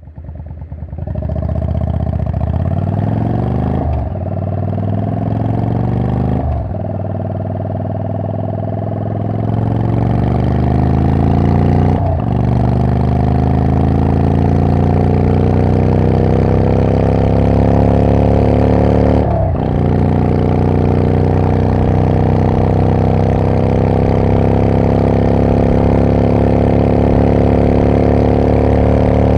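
Yamaha Drag Star 400 Classic's V-twin through a very loud aftermarket muffler not legal for inspection, accelerating hard. It shifts up four times, a few seconds in, then at about six, twelve and nineteen seconds, with the exhaust note climbing after each shift. It then pulls steadily in top gear at highway speed.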